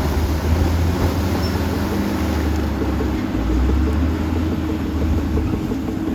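Heavy diesel earthmoving machinery running: a bulldozer or dump truck engine with a deep rumble, its low note shifting about three seconds in.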